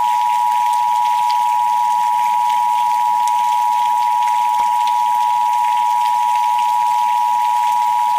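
A steady pure meditation tone just under 1 kHz, held unbroken, layered over a soft rain-like hiss with faint scattered ticks.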